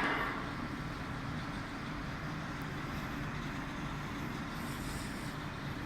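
Tunnel car wash machinery running with a steady low hum, opening with a short hissing rush that fades within half a second.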